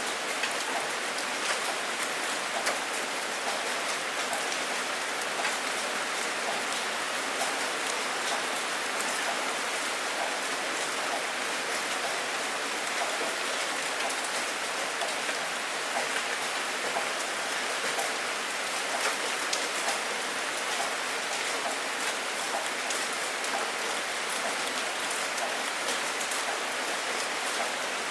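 Steady rain falling, a dense even hiss with many individual drops pattering close by. No thunder in this stretch.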